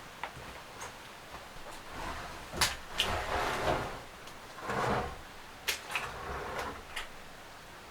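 Several sharp knocks and clicks, with two short stretches of scraping or rustling in between, as objects are handled and set down.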